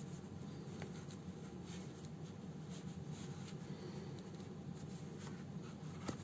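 Faint scratching and rustling of hand-sewing, a needle and thread drawn through a fabric house slipper, with scattered small clicks, the sharpest near the end, over a steady low hum.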